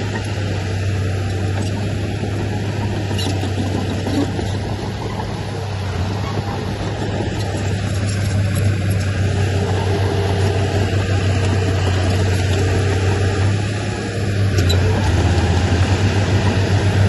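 Heavy diesel engine of earthmoving machinery running steadily, growing louder about fourteen seconds in.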